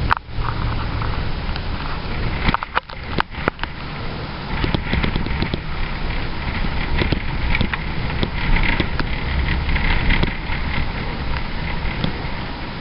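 Road and engine noise inside a truck's cab while driving, a steady low rumble with a few sharp knocks in the first few seconds.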